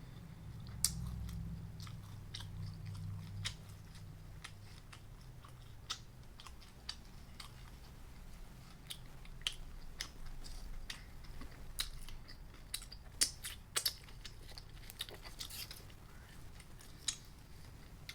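Close-miked eating: a person chewing and biting food, with many short crisp crunches and clicks, busiest in the second half.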